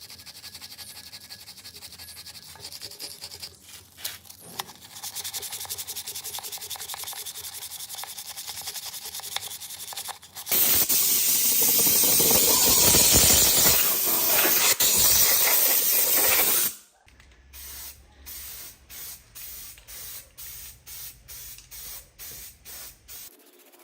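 Abrasive rubbing on a rusty metal machine part for about ten seconds, then a loud steady hiss lasting about six seconds. After that come short rubbing strokes, about two a second.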